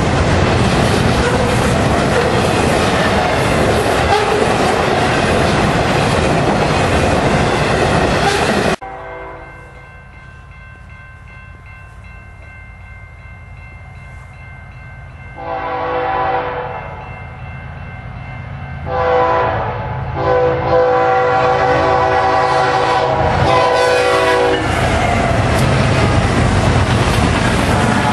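Double-stack container train rolling past close by, its wheels and cars making a loud steady rumble that stops abruptly about a third of the way in. Then a diesel locomotive horn sounds from an approaching freight train at a grade crossing: a short blast, another short one, then a long one of about four seconds, after which the train's wheels and cars rumble past loudly.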